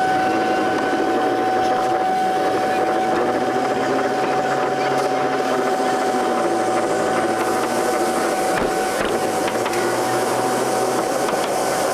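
Ride on a 5-inch gauge miniature train: a steady high whine over rolling noise, which cuts off near the end.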